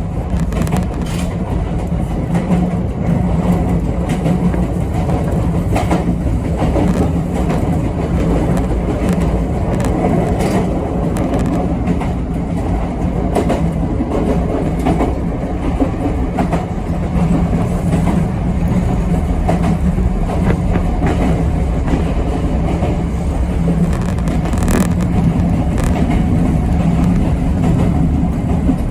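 Yoro Railway 7700-series electric train running along the line, heard from inside at the front: a steady rumble of wheels on rail with a low hum, and occasional clicks as the wheels cross rail joints.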